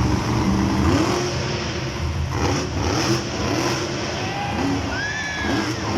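Monster truck engine revving hard, its pitch climbing and falling again several times.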